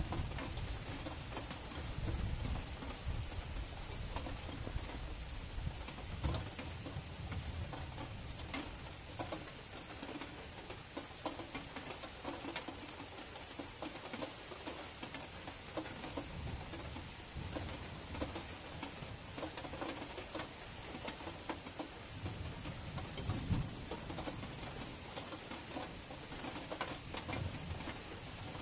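Steady rain falling, with many small drops ticking and pattering close by. Low rumbles swell and fade several times underneath.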